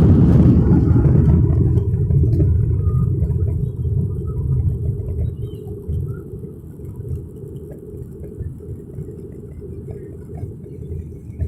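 Jet airliner's engine noise fading away after takeoff. The high end drops out within the first two seconds, and what remains sinks over several seconds to a low, steady rumble.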